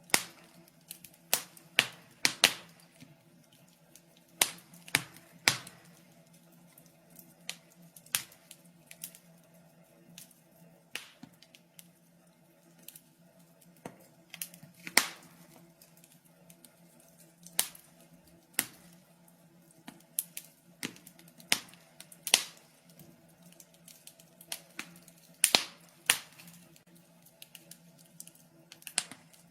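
Wood fire crackling in a fireplace: irregular sharp pops and snaps, some loud and some faint, scattered unevenly.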